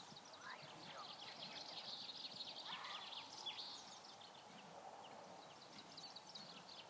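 Faint songbird song: rapid runs of short, high chirps repeating throughout, over a low steady background hiss.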